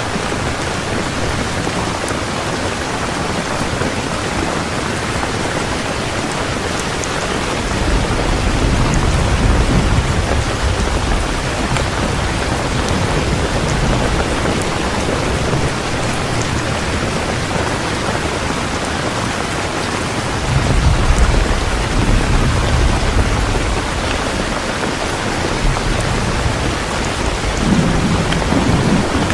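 Heavy rain falling steadily, with low rumbles of thunder rolling in about eight seconds in, again about twenty seconds in, and a shorter one near the end.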